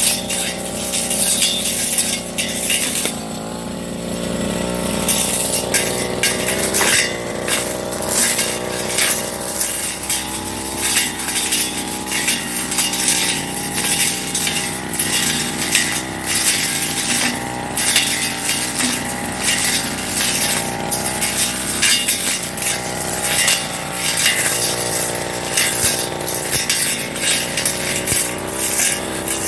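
Firman brush cutter running under load with a metal cutting blade, its engine speed rising and falling as it swings through grass. Frequent sharp clicks and clinks come from the blade striking stems and debris.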